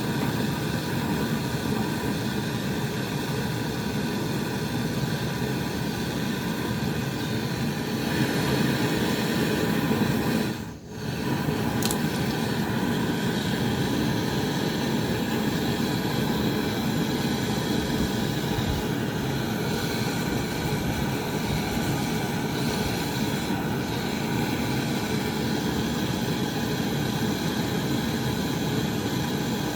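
Steady, loud machine noise running without a break, with a brief drop about eleven seconds in.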